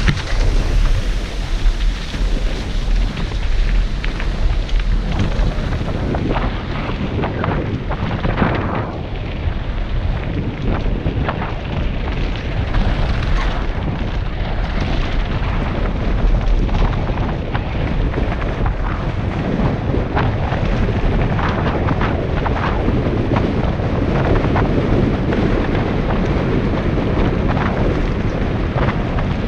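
Wind buffeting a helmet-mounted GoPro over the steady rumble of bike tyres on a rough gravel road, with constant small clicks and rattles from the bike bouncing over stones.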